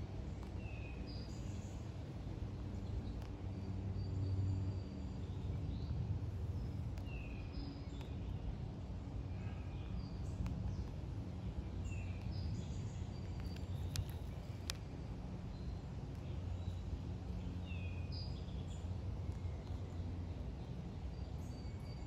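Wild birds calling outdoors over a steady low hum: a short falling chirp comes back about every five or six seconds, among other brief high chirps. Two sharp clicks sound close together near the middle.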